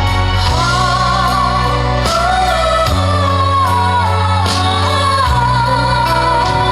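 Trot song sung live by a boy singer over a backing track with bass and a steady drum beat. His voice comes in about half a second in with long held notes.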